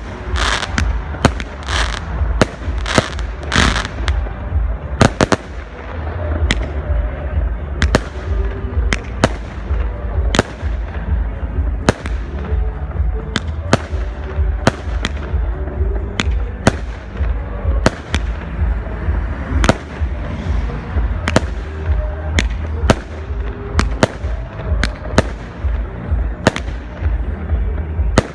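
Fireworks display: a steady run of loud bangs from bursting aerial shells, about one to two a second, each trailing off in an echo. In the first few seconds there is also crackling.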